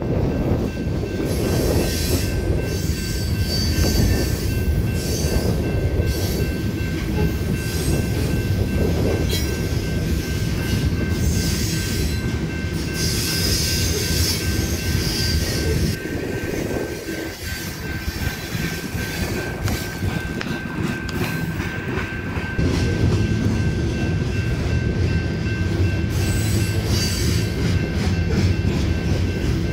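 Freight train rolling past at speed: steady rumble of wheels on rail with clickety-clack, and high-pitched wheel squeal rising in several stretches, about a third of the way in and near the end. A faint steady high tone runs underneath.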